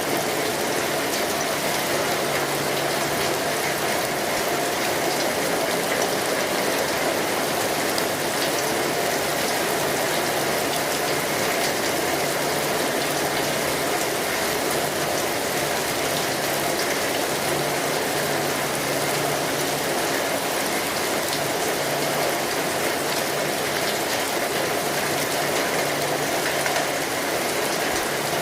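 Steady rainfall, an even hiss of rain with many small drop ticks on a surface. A faint low hum comes and goes underneath.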